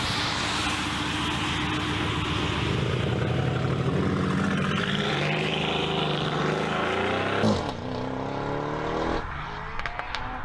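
Mercedes-AMG car engine and exhaust running loud under hard throttle. About seven and a half seconds in the sound changes abruptly, and the engine revs in quick sweeps that rise in pitch.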